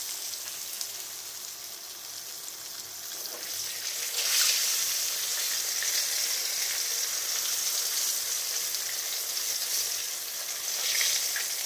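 Tofu cubes frying in hot oil, a steady sizzle that swells louder about four seconds in and briefly again near the end.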